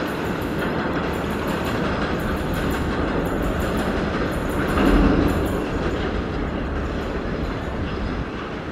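Freight train of BTPN tank wagons rolling past, wheels clattering steadily over the rail joints, with a louder swell about five seconds in.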